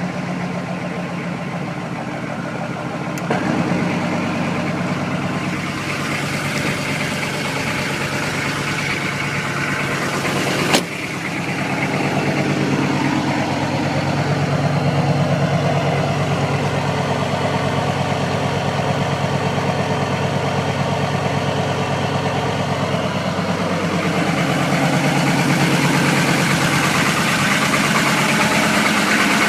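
Diesel truck engine idling just after a cold start, with the exhaust out of a stack. Its sound steps up about three seconds in, and again after a sharp click about eleven seconds in, as it is brought up to high idle.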